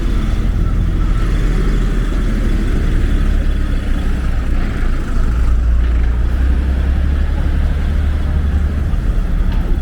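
Street ambience dominated by a steady low rumble like road traffic. The rumble grows louder for a few seconds past the middle.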